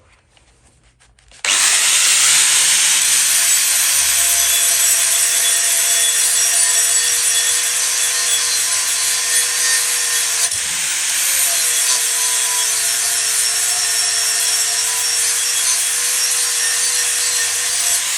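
Angle grinder fitted with a linishing disc, switched on about a second and a half in and sanding metal, with a steady hiss over a constant motor tone. The tone dips briefly around the middle as the disc is pressed harder into the work.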